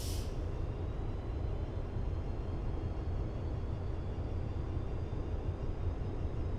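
Train running at speed: a steady low rumble with a few faint high thin tones above it, and a brief hiss right at the start.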